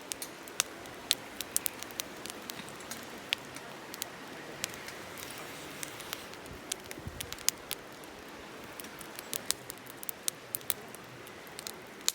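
Wood campfire crackling: sharp pops at irregular intervals over a low steady hiss, with a soft low thump about seven seconds in.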